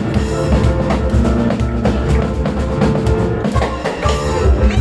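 Live instrumental music: piano with a drum kit and cajón, the drums playing dense, driving hits under sustained piano notes.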